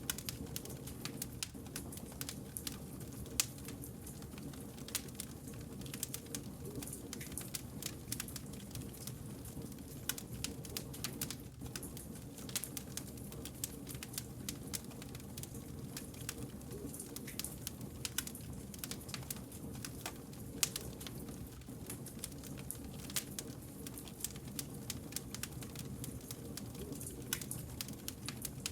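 Wood fire burning, with sharp, irregular crackles and snaps over a steady low rumble.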